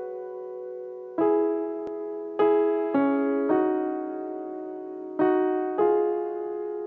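Background music: an electric piano playing slow, sustained chords, six new chords struck and left to ring and fade.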